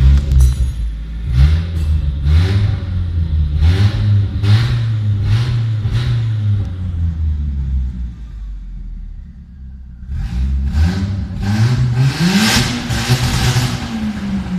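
Straight-piped CA18DET turbocharged four-cylinder of a Nissan S13 being revved in a string of quick throttle blips, settling back toward idle about eight seconds in, then one longer rev that rises and falls near the end.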